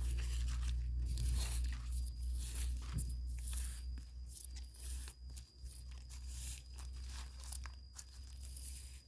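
Crackling, tearing and crunching of soil and leaf litter as termite mushrooms are pulled up from a clump, over a steady low rumble. A faint, thin high tone holds steady from about two seconds in.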